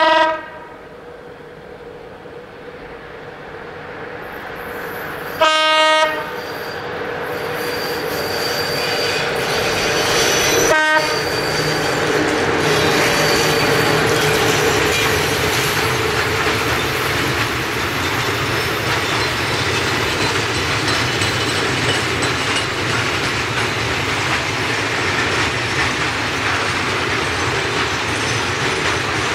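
Electric locomotive sounding its horn: the end of one blast right at the start, another short blast about five and a half seconds in, and a brief toot near eleven seconds in. Then a long freight train of hopper wagons rolls past with a steady rumble that builds up and holds.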